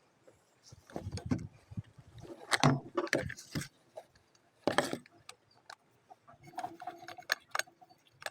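Irregular knocks, clatter and clinks of tools and materials being handled, with a cluster of sharp knocks a few seconds in and a short rattling scrape about halfway through.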